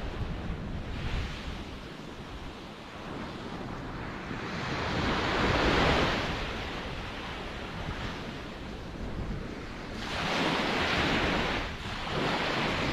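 Ocean waves breaking and washing on the shore, swelling and fading in surges: a large one builds about halfway through, then two more near the end, with wind in the background.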